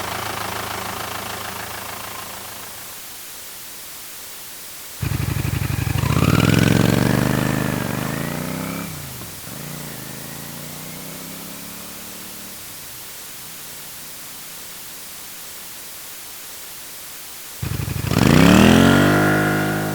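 A truck engine fades away. Then a motorcycle rides past: its engine pitch climbs as it approaches, drops as it goes by, and fades out. Near the end another motorcycle pass begins, its engine pitch rising steeply.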